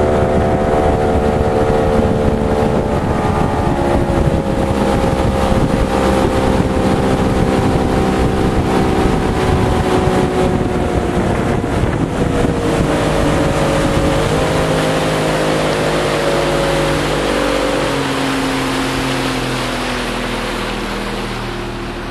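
Boat engine running steadily, with water rushing and wind on the microphone; the engine's pitch drops and it grows quieter over the last several seconds as the boat slows.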